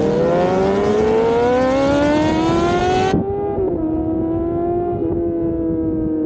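Sport bike engine accelerating, its note rising steadily for about three seconds. Then the sound changes abruptly and the engine holds a steadier, slowly falling note.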